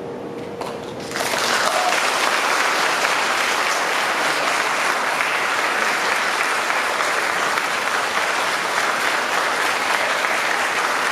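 Audience applauding, bursting in about a second in as the last held note of the violin and piano dies away, then going on steadily.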